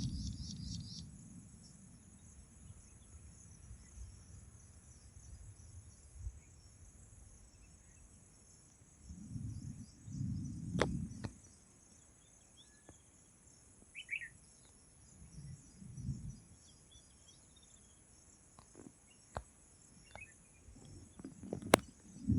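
Insects trilling steadily in the background, with a short bird chirp about two thirds of the way through. A few low rumbles and scattered clicks come and go.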